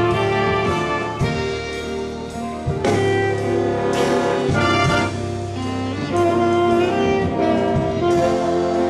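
Church orchestra playing an instrumental passage: held chords over a steady beat, with sharp accents every second or two.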